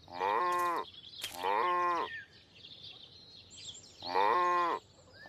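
Sheep bleating three times. The calls are identical and each lasts under a second, the first two close together and the third about two seconds later.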